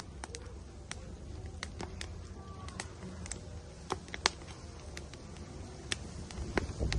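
Firewood burning in an outdoor grill, crackling with irregular sharp pops and snaps over a low steady rumble; the rumble swells louder near the end.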